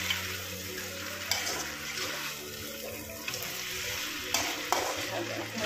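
Duck meat and potato pieces sizzling steadily as they fry in oil in a pan, with a few short scrapes and knocks of a spatula stirring them, about a second in and near the end.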